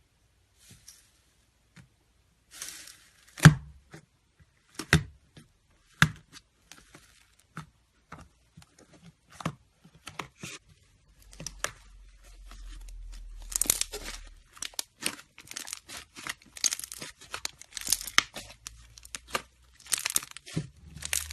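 Slime being squeezed and pulled by hand, making sharp popping clicks and crackles, with the crackling growing denser in the second half.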